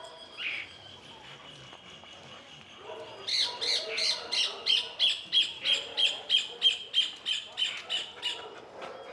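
A bird calling in a fast, even run of harsh squawks, about three a second, for roughly five seconds from about three seconds in. There is a single falling call near the start.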